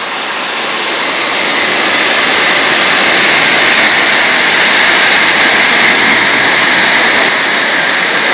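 An approaching electric train: a steady rushing hiss with a faint whine in it, slowly growing louder over the first few seconds and easing slightly near the end.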